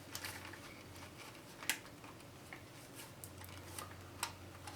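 Scattered small clicks and taps from handling a portable boombox's plastic case and internal parts during disassembly, two of them sharper, about a second and a half in and near the end, over a faint steady low hum.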